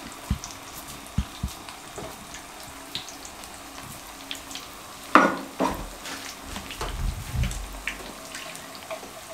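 A chapli kabab patty shallow-frying in oil in a nonstick frying pan, with a steady low sizzle. A few light knocks come in the first seconds and a louder knock about five seconds in, from the kabab mixture being handled.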